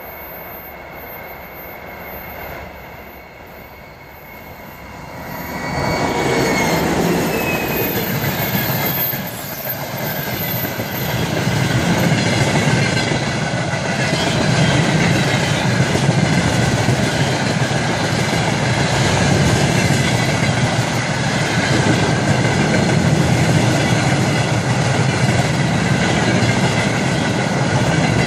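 A 2TE116 twin-section diesel locomotive passing at speed, its high whistle dropping in pitch as it goes by about six to nine seconds in, followed by a long train of empty tank cars rolling past with steady wheel clatter.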